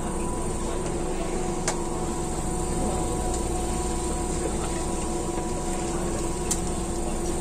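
Keihan electric train running at a steady pace, heard from inside the front car: a continuous rumble of wheels on rail with a constant hum, and two sharp clicks, one about two seconds in and one near the end.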